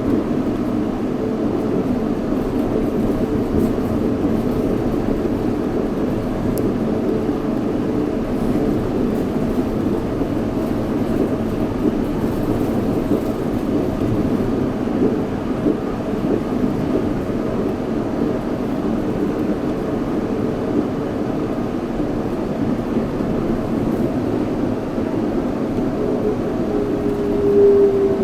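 Yurikamome 7300 series rubber-tyred automated guideway train running along its guideway, with a steady rumble and a hum of held tones. Near the end a whine slides down in pitch.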